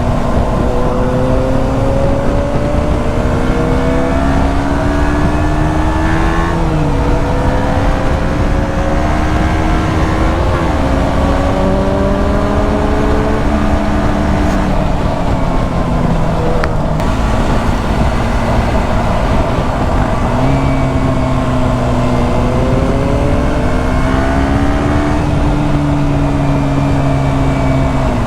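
KTM 125 Duke's single-cylinder four-stroke engine pulling up through the gears, its pitch rising and dropping at gear changes about 7 and 10 seconds in, then easing off around 16 seconds and climbing again from about 20 seconds before holding steady. Constant wind noise on the microphone runs underneath.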